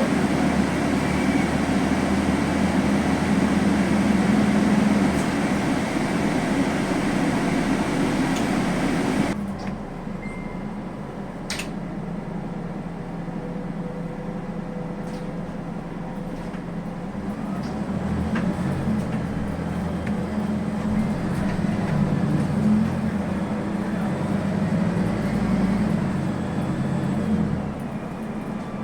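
Inside a Scania N280UB city bus on the move: its compressed-natural-gas engine runs under road and tyre noise. About a third of the way in the loud running noise drops off suddenly. Later the engine's low hum builds again as the bus pulls harder.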